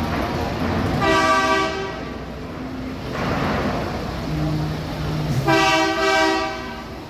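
Truck air horns blasting twice, each blast about a second long, with about four seconds between them, over a steady low engine rumble.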